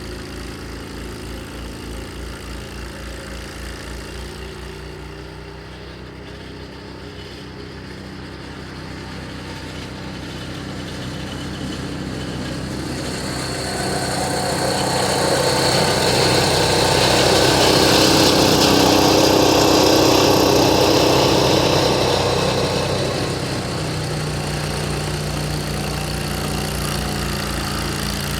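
Snowblower's 6.5 hp 208 cc single-cylinder engine running steadily. About halfway through, a broad rushing noise swells up, grows loud for several seconds and then falls back, leaving the engine's steady hum.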